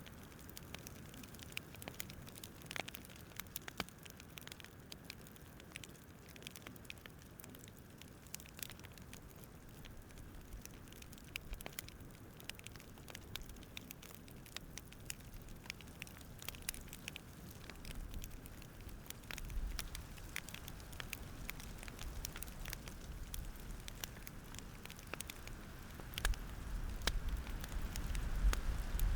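Wood campfire crackling: irregular sharp pops and snaps over a soft steady hiss, with a low rumble swelling up near the end.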